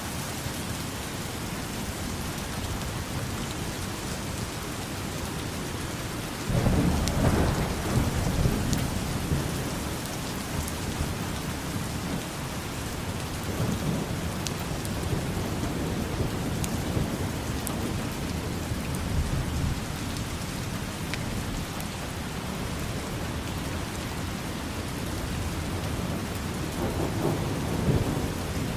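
Steady rain with rolls of thunder: a sudden low rumble about a quarter of the way in that fades over several seconds, a softer one around the middle, and another building near the end.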